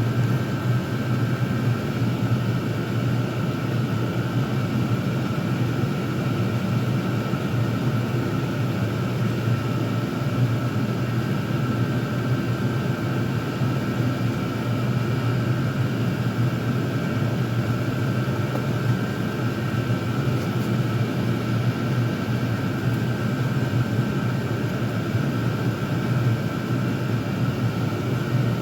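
Several Chinese diesel air heaters running together at maximum output: a steady rumble of the burners and blower fans with a constant high fan whine over it.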